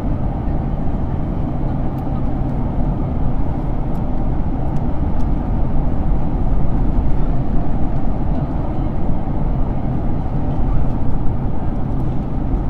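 Steady, loud rumble and rush of a Boeing 767-300's engines and airflow as heard inside the passenger cabin during the approach, with a few faint ticks around two to five seconds in.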